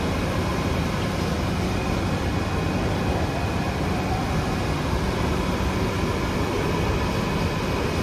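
Steady running noise inside a Singapore MRT train: an even rumble with a faint hum, unchanging throughout.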